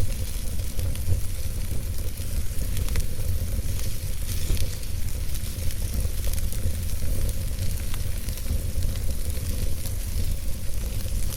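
Wood logs burning in a fireplace: scattered sharp crackles and pops over a steady low rumble and hiss of the flames.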